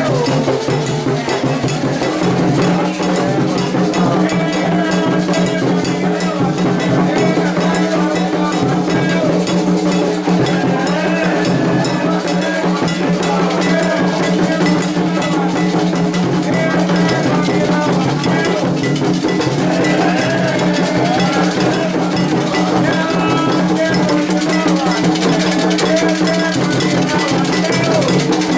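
Candomblé ritual music: an agogô bell struck in a fast, steady repeating pattern over hand drums, with voices singing a chant.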